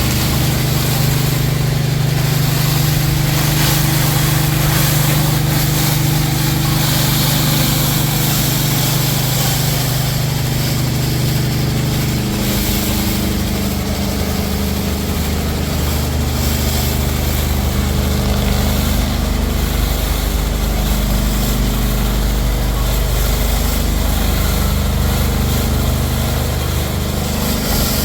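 Pressure washer engine running steadily under the hiss of the high-pressure water spray; the engine note shifts about twelve seconds in.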